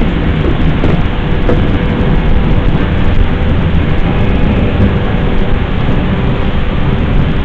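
Thunderstorm: steady heavy rain with a continuous low rumble of rolling thunder.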